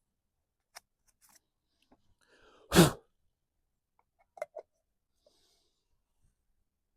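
A person sneezes once, loudly, just under three seconds in, right after a short intake of breath. A few faint clicks and knocks come before and after it.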